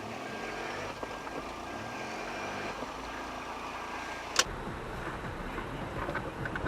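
Steady road and engine noise of a car driving, heard from inside through a dashcam, with a faint on-and-off beeping tone. There is a sharp click about four and a half seconds in.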